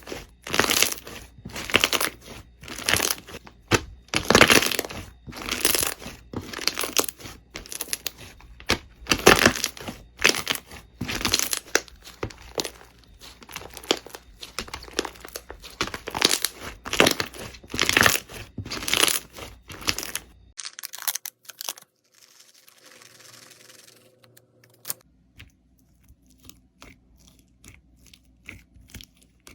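Slime being squeezed and pressed by hand, giving repeated crackling, crinkling pops about once or twice a second. About two-thirds of the way in this stops abruptly, leaving only faint soft handling sounds with a few small clicks.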